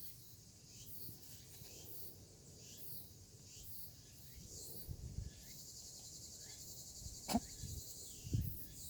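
Insects chirping faintly in short high-pitched pulses, turning into a steadier trill about halfway through. A sharp click comes a little after seven seconds, and a dull thump follows near the end.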